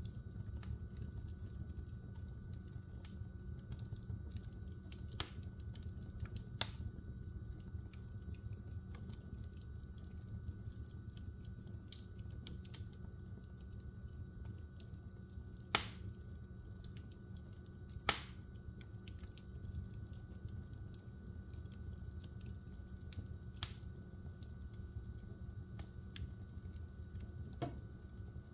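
Wood fire burning in a fireplace: a steady low rush of flames with frequent small crackles and a few sharper pops, the loudest two about a third and two thirds of the way through.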